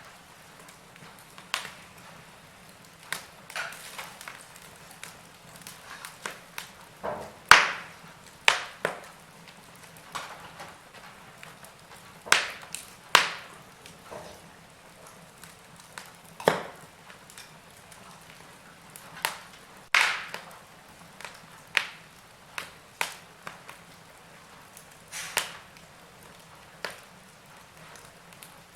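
Wood fire crackling in a fireplace: irregular sharp pops and snaps over a faint hiss, the loudest pop about seven and a half seconds in.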